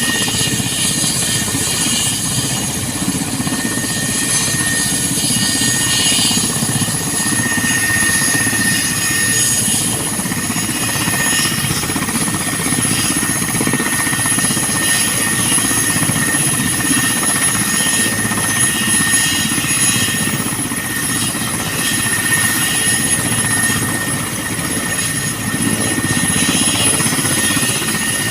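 Mil Mi-17 twin-turboshaft helicopter running steadily, its rotor noise low and dense under a constant high turbine whine.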